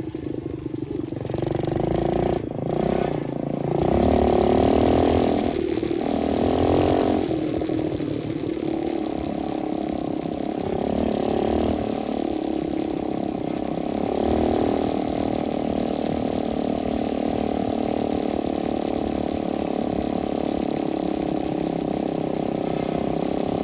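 125cc dirt bike engine revving up and down several times in the first several seconds, then running at a steady speed.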